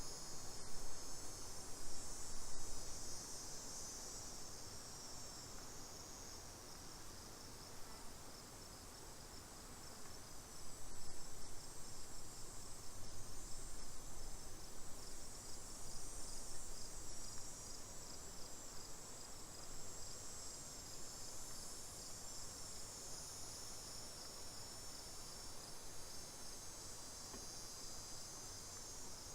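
Insects trilling in a steady, high-pitched outdoor chorus that slowly swells and fades. A louder stretch of low noise comes in the middle.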